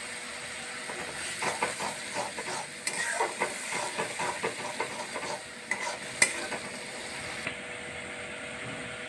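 A spatula stirring and scraping ginger-onion-garlic paste with turmeric through hot oil in a pan over a steady sizzle. There is a run of quick scraping strokes for about five seconds, two to three a second, and a sharp knock on the pan after about six seconds.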